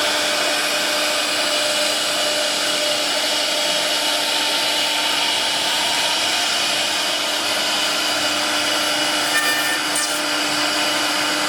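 CNC wood router running steadily: a constant whine of several steady tones over a hiss, with no change in level.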